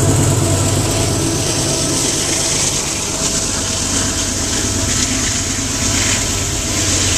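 Freight train passing close by: a steady rumble and hiss of coal-car wheels on the rails. About halfway through, the diesel engine of the Union Pacific locomotive at the rear of the train goes by.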